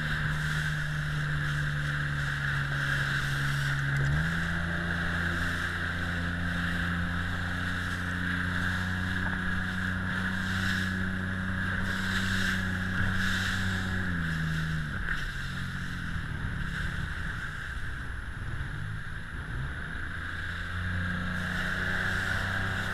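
Motorboat engine running steadily under a hiss of wind and water. Its pitch steps up about four seconds in, sinks to a low, uneven run around fifteen seconds in, and picks up again near the end.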